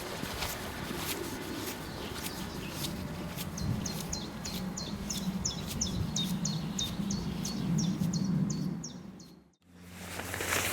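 A songbird singing a long run of short, high, down-slurred notes, about three a second, for roughly five seconds over a low outdoor rumble. The audio drops out abruptly near the end, and a steady low hum follows.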